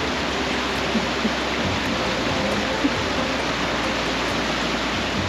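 Steady rushing of river rapids on the Cape Fear River, an even wash of water noise.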